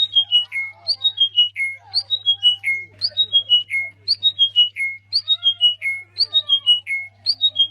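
A bird repeating a short whistled phrase of about five notes stepping down in pitch, about once a second, over a steady low hum.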